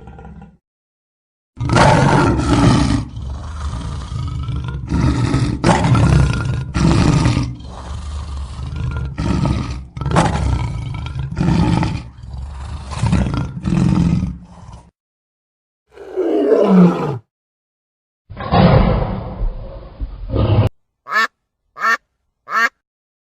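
A run of different animal calls cut together. First comes a long series of loud, deep, repeated calls, then a single call that slides downward, another short call, and four short high chirps near the end.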